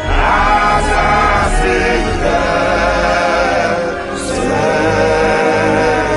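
Gospel choir singing over instrumental backing music.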